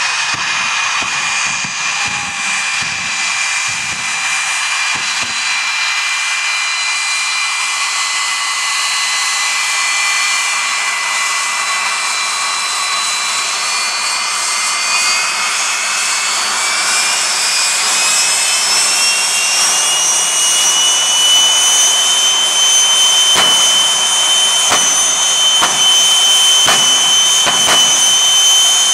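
Jet truck's jet engine running with a steady high whine that rises in pitch a little past halfway through and then holds at the higher pitch.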